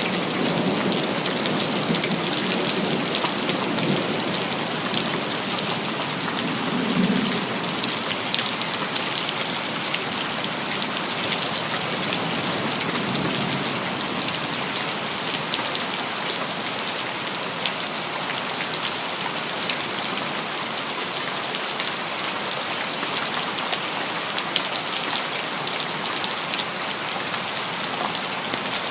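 City rain falling steadily on hard surfaces, thick with small drop ticks. Low rumbles of thunder come in the first half, the strongest about seven seconds in.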